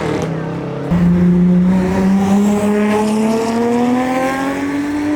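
A car engine under hard acceleration. It gets louder about a second in, then its pitch climbs slowly and steadily as the revs build.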